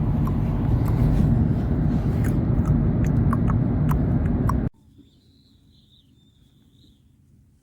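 Road and engine noise inside a moving car, a steady low rumble with a few short chirps over it, cutting off abruptly about two-thirds of the way through. What follows is a quiet background with a faint high wavering whistle.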